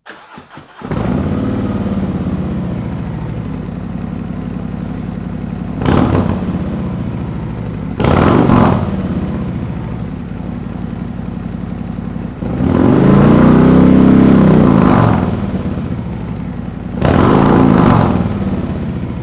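Harley-Davidson Milwaukee-Eight V-twin, breathing through an S&S Sidewinder 2-into-1 exhaust, starts about a second in and idles. It is revved four times, the longest and loudest rev near the middle.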